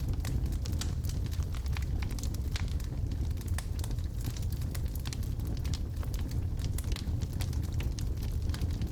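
Wood logs burning in a fireplace: a steady low rumble of the fire with frequent sharp crackles and pops.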